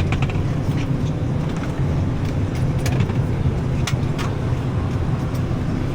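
Steady low rumble inside a parked Boeing 737-800's cabin during boarding, with scattered sharp clicks and knocks.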